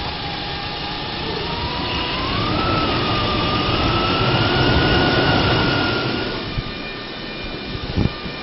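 2002 GMC Sierra 2500's 6.0-litre V8 engine running, revved up about two seconds in with a whine rising in pitch and held, then settling back to idle about six seconds in. A short knock near the end.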